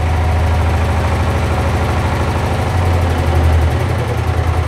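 Sifang 20 hp single-cylinder diesel engine running steadily. Near the end it swells briefly and then slows into distinct, evenly spaced firing beats, about five a second, as it is throttled down.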